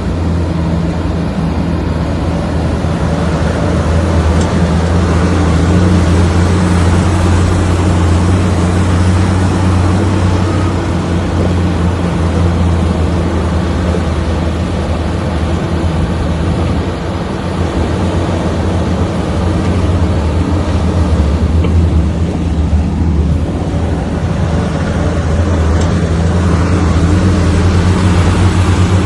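Heavy diesel earthmoving engine running steadily, easing off a little past the middle and building up again near the end.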